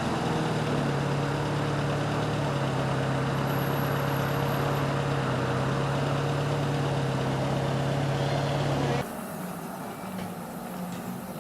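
A vehicle engine idling steadily. About nine seconds in, the engine sound cuts off suddenly, leaving a quieter background.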